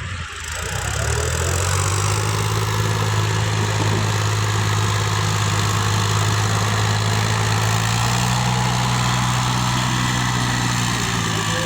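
An engine running steadily at constant speed, a deep even hum.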